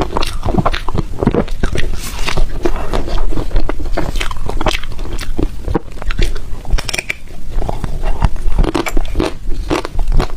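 Someone biting and chewing soft, crunchy ice: a dense, continuous run of crunches and crackles.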